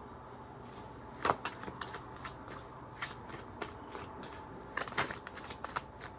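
Tarot cards being shuffled by hand: from about a second in, a run of quick, uneven card slaps and flicks.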